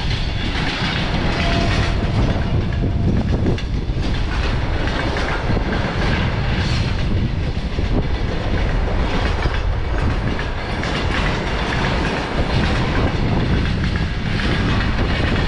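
Indian Railways freight train running, its wagon wheels on the rails making a loud, steady noise.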